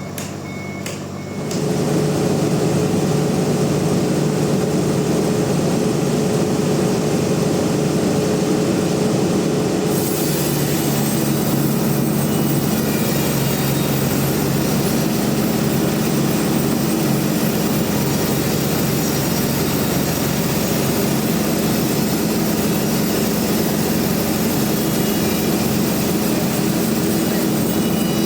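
Heavy machinery engine starting up and running loud and steady about a second and a half in; about ten seconds in the pitch shifts and a hiss joins it, as if the machine takes on work.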